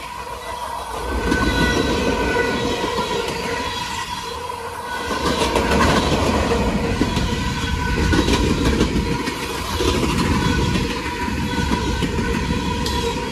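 A freight train's open-top hopper cars rolling past at close range, wheels clicking over the rails, the rumble swelling and easing as each set of wheels goes by.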